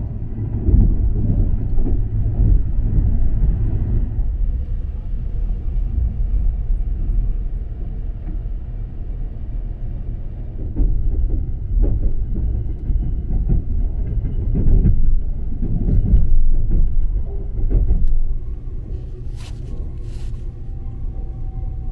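Running noise of the 285-series Sunrise Express electric sleeper train heard from inside the carriage: a low rumble of wheels on rail that swells and eases, getting quieter over the last few seconds. Two sharp clicks come near the end.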